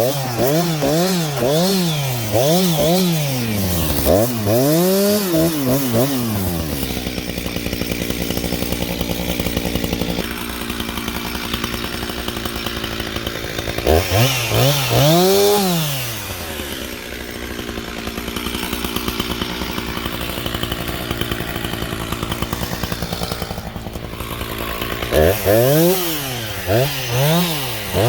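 Husqvarna chainsaw revved up and down in quick swells, then held at a steady pitch for several seconds at a time. This happens twice, as the saw works through the downed spruce.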